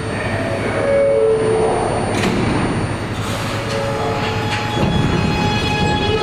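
Kawasaki R211A subway train in the station: running rumble and clatter with short tones early on. About four seconds in, a set of steady electric tones from the train's equipment sets in and holds.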